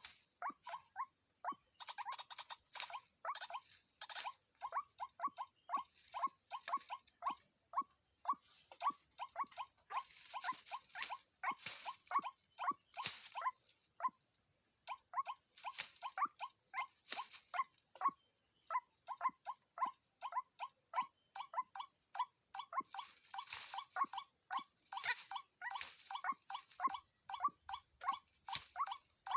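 White-breasted waterhens calling: a long run of short, clipped notes, about two or three a second, with harsher rasping notes mixed among them and a couple of brief pauses.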